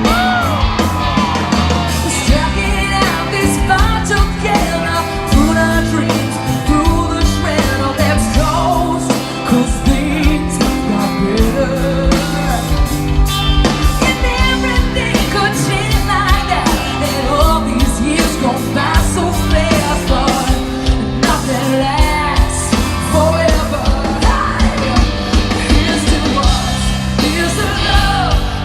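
Live rock band playing, a singer's voice over a steady drum beat, loud throughout.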